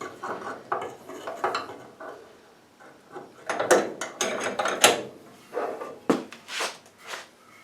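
Metal bracket stock being handled and bent by hand: irregular clanks, knocks and scrapes of metal, with the sharpest clacks around the middle and again near the end.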